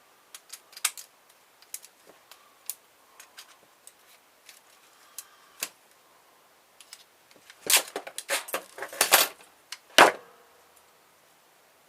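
Scattered clicks and clatter of the metal and plastic parts of a car stereo being handled as it is taken apart. A louder run of clattering comes about eight seconds in, then a single sharp knock about ten seconds in.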